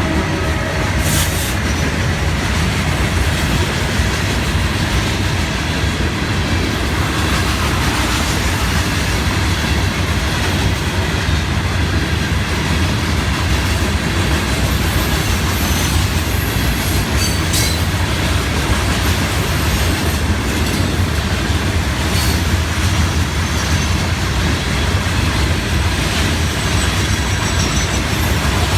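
Freight train of rock-laden cars rolling by: a steady, loud rumble and clatter of steel wheels on rail, with a few brief high-pitched squeals and clicks.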